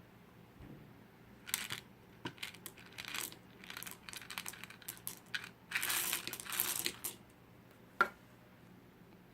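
Irregular crinkling and crackling, like something being crumpled or handled close up, in uneven bursts over several seconds, followed by one sharp click near the end.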